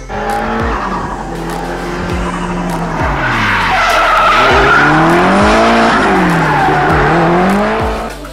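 Car drifting: the engine revs with its pitch falling and then swooping up and down several times, over tyre squeal that is loudest in the middle.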